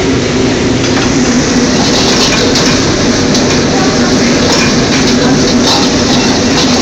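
A commercial wok range running steadily: gas burner and kitchen exhaust, with light sizzling and clatter from the wok from about two seconds in.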